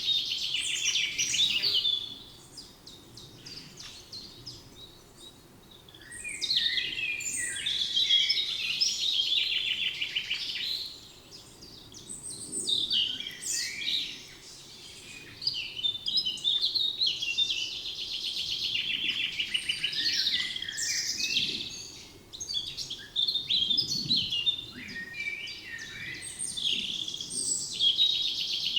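Songbirds singing: phrases of rapid high trills and chirps, broken by short pauses of a few seconds, over faint low background noise.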